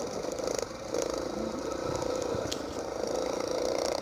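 Mini motocross bike engine running steadily, with a single sharp tick about two and a half seconds in.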